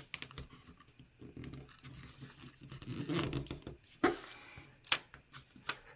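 A thick sheet of paper being folded and creased by hand, rustling and crinkling, with a sharp crackle about four seconds in and another near five seconds.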